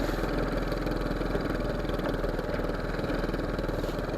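Fishing boat's engine running steadily at low revs, a fast even chug with no change in speed.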